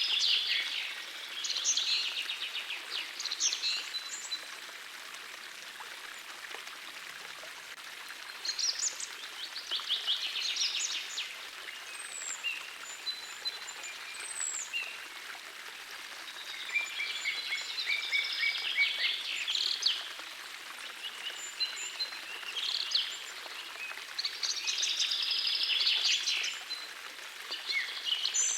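Small forest stream flowing steadily, with songbirds singing fast, trilling phrases that come in bouts every few seconds over the rush of the water.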